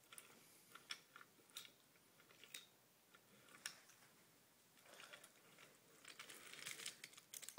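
Near silence broken by faint, scattered clicks and knocks of toy train cars and track pieces being handled, with a faint rustle toward the end.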